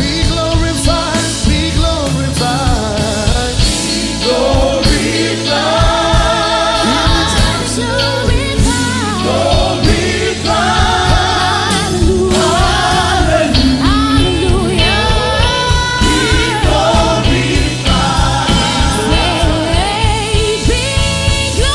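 A gospel choir and lead voices singing with a backing band over a steady beat.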